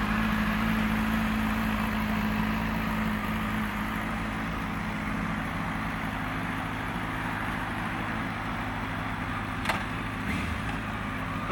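Honda Fireblade's inline-four engine idling steadily through an aftermarket Yoshimura exhaust, with one sharp click about ten seconds in.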